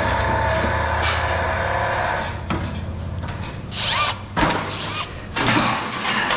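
Power drill running steadily for about two and a half seconds, then stopping. Several knocks and clanks of loose metal parts follow.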